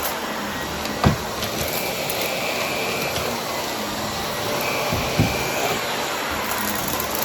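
Brushroll vacuum cleaner running steadily, with two short sharp knocks, one about a second in and another about five seconds in.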